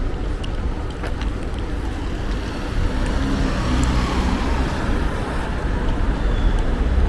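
Road traffic: a steady rumble of cars, with one vehicle's engine and tyre hiss swelling as it passes close, about three to four seconds in.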